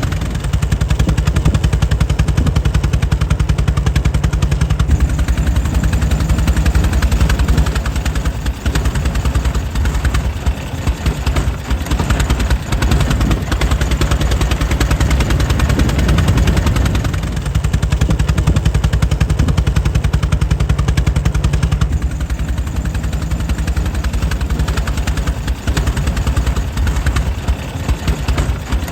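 Air-cooled 1904 Mitchell engine running steadily, a rapid, even train of firing beats. Its level dips a little now and then.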